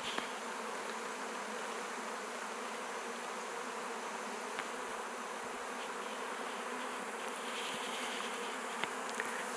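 Honey bee swarm buzzing steadily, the hum of many bees flying and settling around the hive entrance.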